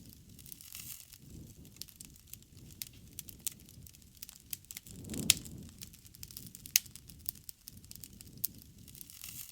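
Wood campfire crackling, with scattered sharp pops, two of them louder about five and seven seconds in, over a low rumble that swells around the middle.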